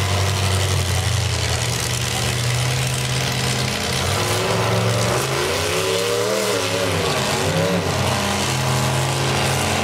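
Demolition derby cars' engines running hard, with the revs of one or more rising and falling about halfway through.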